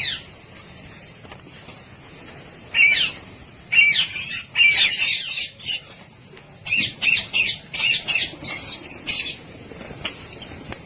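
Parrots squawking in bursts: a single harsh call about three seconds in, a tangle of calls from about four to six seconds, then a quick run of short squawks from about seven to nine seconds.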